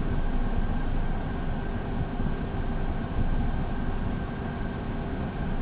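Steady cockpit noise of a Beechcraft Premier I's twin Williams FJ44 turbofans running at low power: a low rumble with a faint steady whine.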